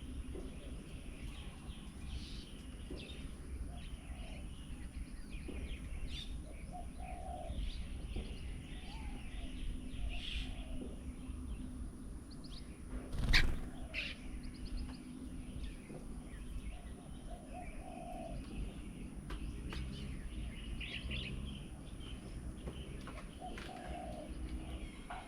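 Birds around a garden bird table: scattered chirps and whistled calls, with some lower cooing calls. A steady high hiss runs underneath, and one loud, sudden noise comes about halfway through.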